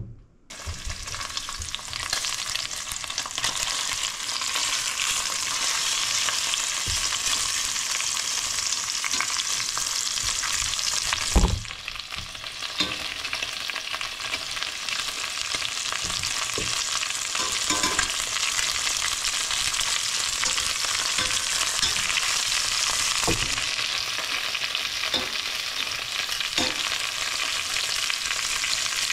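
Food sizzling in hot avocado oil in a pan, starting abruptly as it goes in and then frying at a steady level, with scattered small clicks and one loud knock about eleven seconds in.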